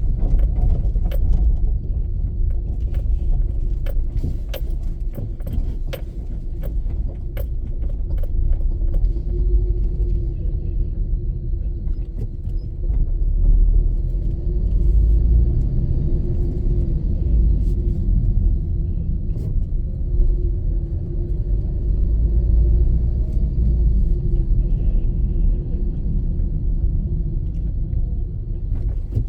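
Car driving along a road: a steady, loud low rumble with a faint hum, and scattered sharp ticks and rattles, most of them in the first half.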